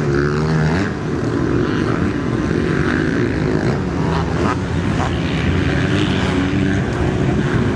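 Several motocross bikes racing, their engines revving up and down through the gears.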